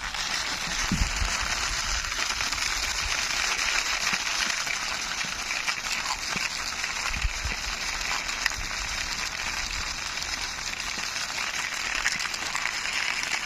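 Toy jeep pushed along by hand, its wheels rolling over the surface in a steady rolling noise, with a low thump about a second in and another around seven seconds.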